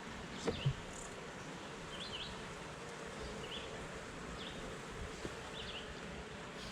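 Honeybees buzzing steadily around an open hive, with two sharp knocks about half a second in. Faint short high chirps repeat about once a second.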